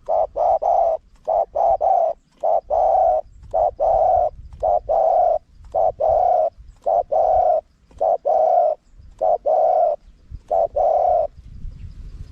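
Spotted dove cooing: a rhythmic run of low coos, short notes mixed with longer ones, stopping about a second before the end. It is a wild-type calling song recorded for playback to lure wild doves.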